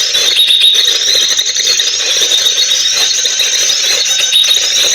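Recorded sunbird song played loudly through a small speaker as a trapping lure: a continuous stream of rapid, high-pitched chirps and trills.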